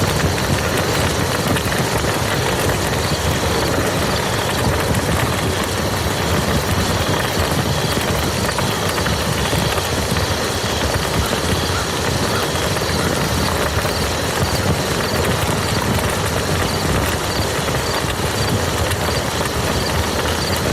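Rain falling steadily on a muddy field, a dense, even hiss that does not let up.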